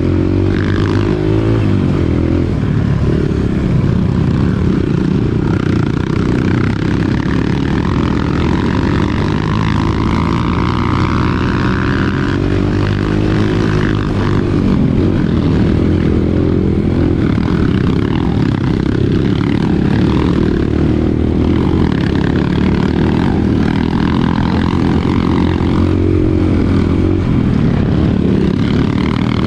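Dirt bike engine running under way on a trail, its revs rising and falling.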